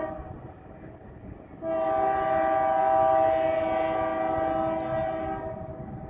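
Freight locomotive air horn: the end of a short blast right at the start, then one long blast of about four seconds beginning near two seconds in, over the low rumble of the train.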